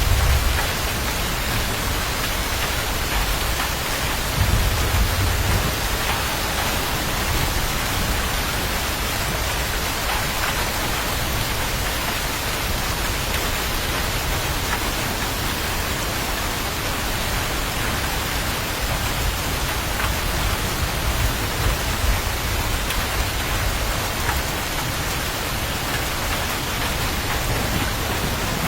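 Steady rain, an even hiss without a break, with brief low rumbles about four seconds in and again later.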